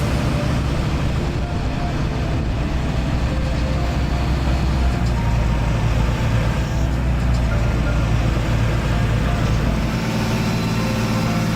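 Heavy engine running steadily with a low hum, its pitch shifting about ten seconds in.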